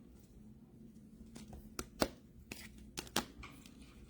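Faint handling noise: about half a dozen sharp clicks and taps, the loudest about two seconds in, over a low steady hum.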